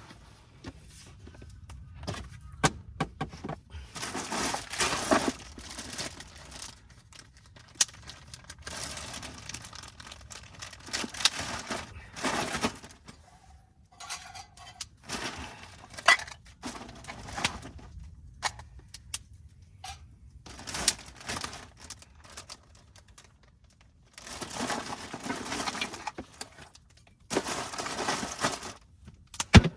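Rustling and clinking of gear being handled, in irregular bursts with sharp clicks between them.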